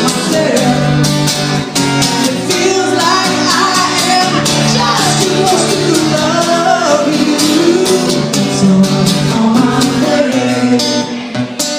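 Live acoustic guitar music between sung lines of the song, with melodic lines bending over the strumming; the playing thins out and drops in level near the end.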